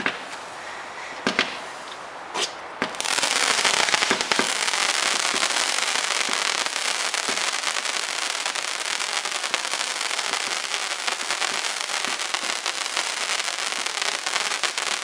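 Fireworks going off: a few separate sharp pops in the first three seconds, then a dense, continuous crackling from about three seconds in.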